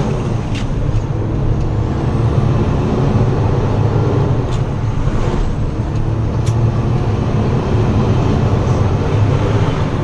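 International ProStar semi-truck's diesel engine running, heard from inside the cab as a steady low rumble, with a few sharp clicks.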